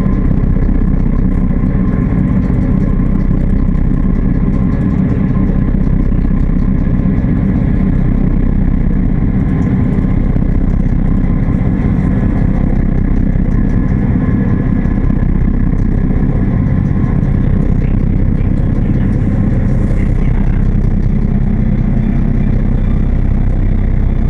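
A ferry's engines running with a loud, steady low drone and a few constant hums layered above it.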